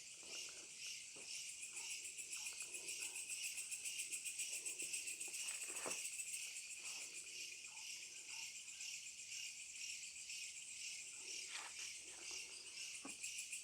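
A steady night chorus of insects, crickets among them: a high, fast-pulsing trill that never stops.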